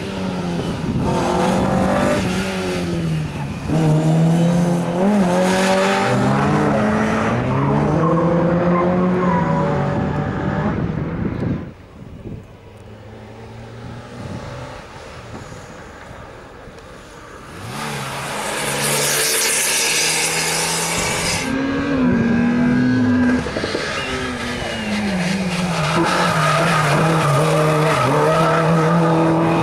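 Rally cars driven hard through a super special stage: engines revving high and dropping back through gear changes and braking, with a quieter lull partway through. Just past halfway comes a loud hiss of tyres sliding, and then the engine revs build again.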